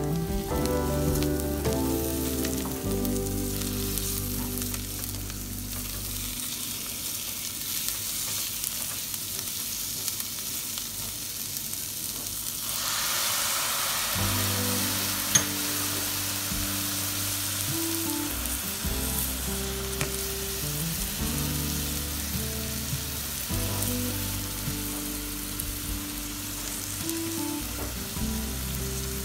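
Onions and sliced red bell pepper sizzling as they fry in a stainless steel pot, stirred with a wooden spoon. About 13 seconds in the sizzle grows louder as soy sauce is poured into the hot pan. Background music with held notes plays over the first few seconds and again in the second half.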